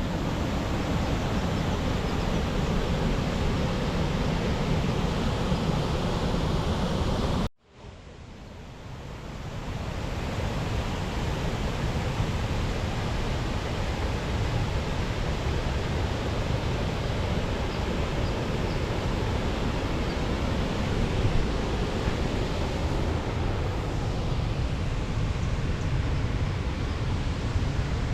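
Steady rushing outdoor noise, heaviest in the low end. It cuts out abruptly about seven seconds in and fades back up over a couple of seconds.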